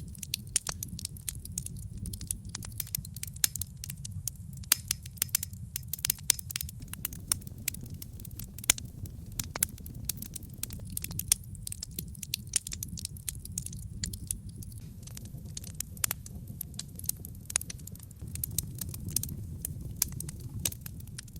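Wood logs burning in an open fireplace: a dense, irregular run of sharp crackles and pops over a steady low rumble of flame.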